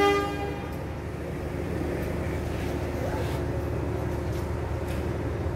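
Diesel locomotive horn sounding the departure signal (semboyan 35), cutting off about half a second in, then the train's steady low rumble.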